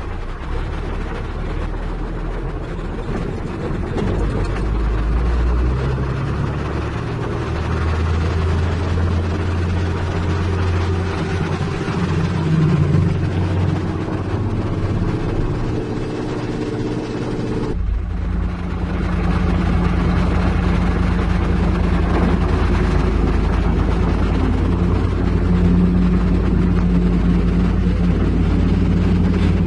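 Heavy diesel engine running, its pitch shifting up and down for a while, then an abrupt switch about two-thirds of the way in to a steadier, slightly louder engine sound.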